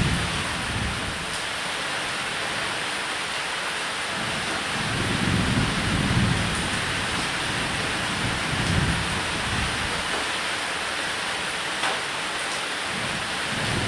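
Steady heavy rain on a roof, with low rolls of thunder swelling about five seconds in, again a few seconds later, and once more at the end.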